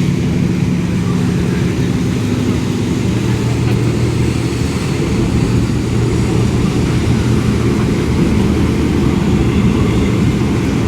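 A heavy engine running steadily with a low hum, its pitch dropping about three seconds in.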